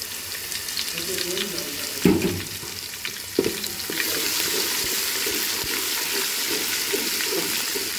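Ginger-garlic paste sizzling in hot oil with browned onions and whole spices in a steel pot, stirred with a wooden spatula. The spatula knocks against the pot twice, about two and three and a half seconds in, and the sizzle grows louder after about four seconds.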